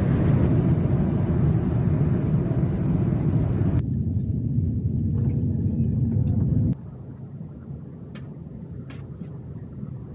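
Loud, steady mechanical rumble that changes abruptly twice, as if at edits: first its hiss drops away, then the rumble itself cuts off, leaving a much quieter background with a few faint clicks.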